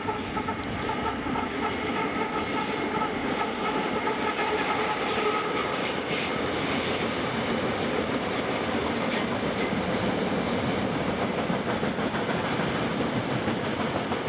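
Freight train wagons rolling past on the rails: a steady rumble and rattle of wheels on track. A few faint steady tones sound over it for the first four or five seconds, then fade.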